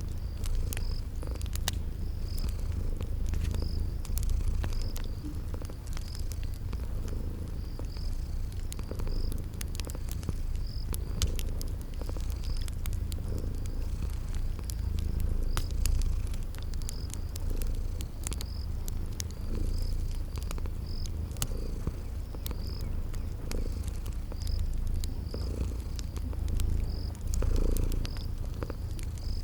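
Cat purring, a continuous low rumble, layered with the scattered pops of a crackling fire and a cricket chirping about once a second.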